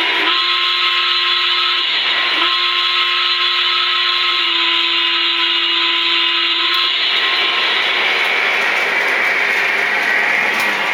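Lionel 2-6-6-2 Mallet model steam locomotive's onboard sound system playing a long whistle blast over steady steam hiss. The whistle breaks briefly about two seconds in and stops about seven seconds in, leaving the hiss.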